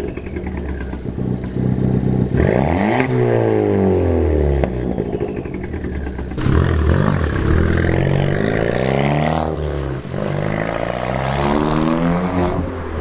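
Ford Fiesta ST engine revving through a Milltek exhaust with the rear silencer removed, the pitch rising and falling several times.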